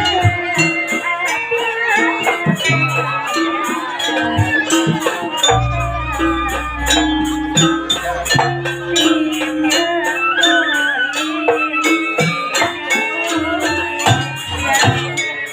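Live jaranan ensemble music: a rattle or jingles keep a fast, even pulse under a melody and steady held notes. About five and a half seconds in, a deep low boom rings for a couple of seconds.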